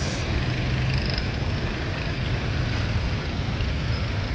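Steady road-traffic noise: a low engine hum under an even rush, with some wind on the microphone.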